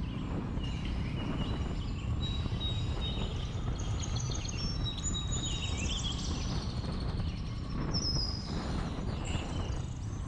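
Steady low rumble of a Jawa 42's single-cylinder engine and wind on the move, with many birds chirping and whistling over it from the roadside forest.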